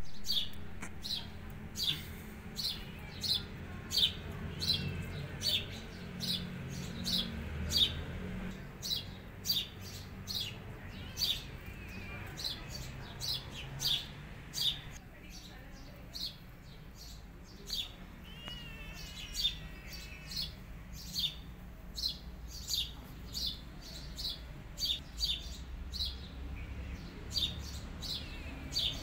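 A bird repeating one short, high chirp steadily, about one and a half times a second, over a low background rumble.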